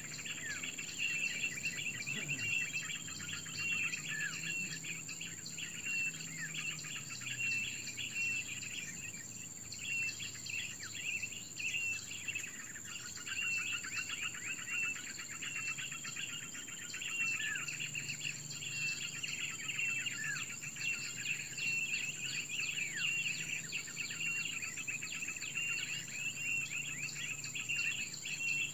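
Small birds chirping quickly and repeatedly, with short calls sweeping downward, over a steady high-pitched insect drone.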